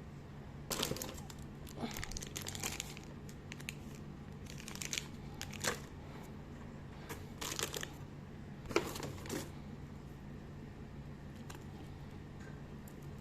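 Packaging crinkling and rustling in several short bursts as items are handled, over a steady low hum.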